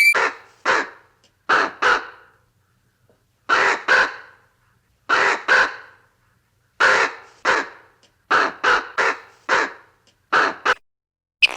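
Harsh, rasping bird calls, caw-like, given mostly in pairs with short pauses between, and a quicker run of four a little past the middle.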